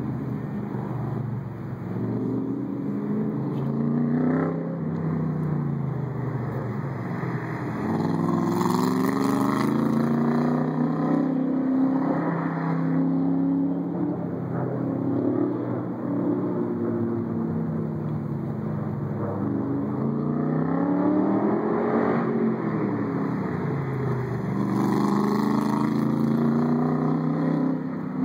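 Shelby Cobra's V8 engine accelerating and easing off again and again through an autocross course, its pitch climbing steeply several times and dropping away between.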